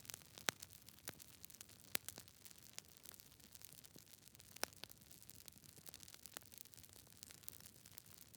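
Wood fire crackling: irregular sharp pops and snaps over a faint hiss, with a few louder pops scattered through.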